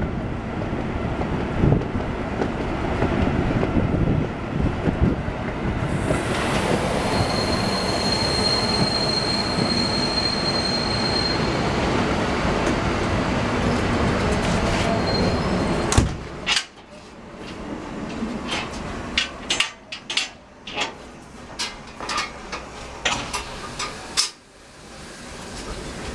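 Steam-hauled heritage train coaches rolling along the track, heard from a coach window: a loud, steady rolling rumble with a high, steady wheel squeal from about seven to eleven seconds in. From about sixteen seconds the noise drops and turns to a quieter run of sharp clicks and knocks from the wheels on the rails.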